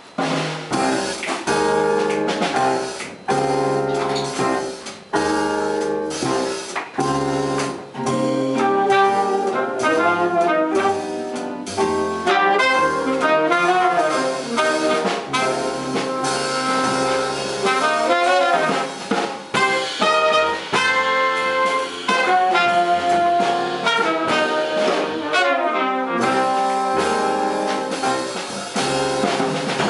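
A jazz big band playing live: trumpets, saxophones and trombones in ensemble with drum kit. It starts abruptly with short punched chords, then runs into fuller, continuous horn lines.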